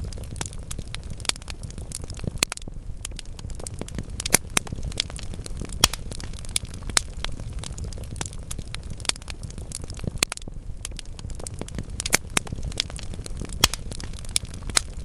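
Wood fire burning in a fireplace: a steady low rumble of flames with frequent sharp crackles and pops from the logs, several louder snaps scattered through.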